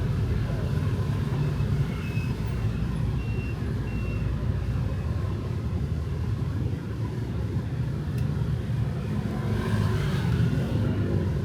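Steady city street traffic with motorbike and car engines rumbling. A few faint short beeps come about two to four seconds in, and a vehicle passes close near the end.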